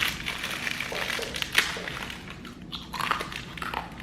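Fortune cookie being bitten and crunched, crisp cracking and chewing with a sharp crack about one and a half seconds in, alongside crinkling of its plastic wrapper.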